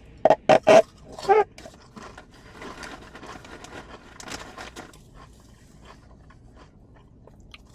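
Four short, loud, bark-like calls in quick succession within the first second and a half, followed by quieter patchy noise.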